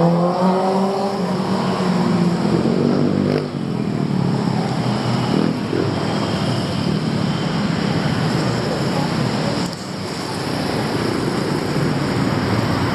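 Busy city street traffic: cars and motorcycles running and passing in a continuous wash of road noise, with one engine's note rising and falling in the first few seconds.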